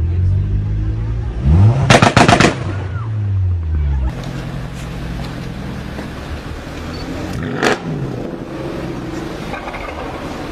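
Car engine revved hard about two seconds in, with a rapid string of loud bangs from the exhaust at the top of the rev, then dropping back. A second rev a few seconds later ends in one sharp bang.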